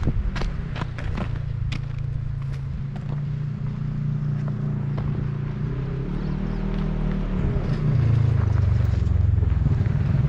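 Dirt bike engine running at low speed, pitch shifting a few times and rising and getting louder about eight seconds in. A few sharp clicks and knocks in the first couple of seconds.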